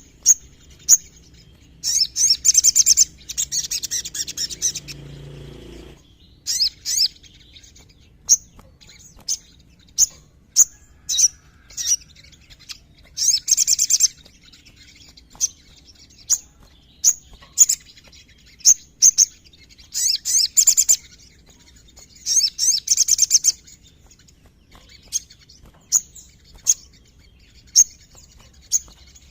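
Ruby-cheeked sunbird (sogon) singing: sharp, high, short chips at irregular intervals, broken several times by fast trilled bursts.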